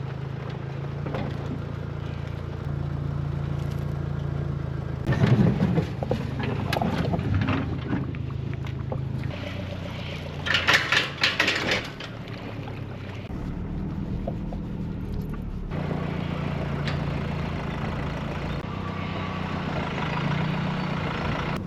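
An engine running steadily with a low hum, with two louder rushing, clattering stretches about five and ten seconds in.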